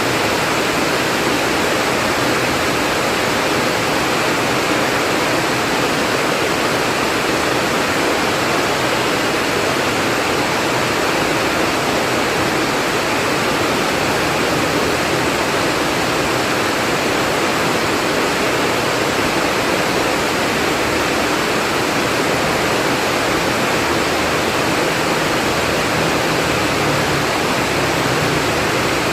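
Heavy pouring rain: a loud, steady hiss with no let-up.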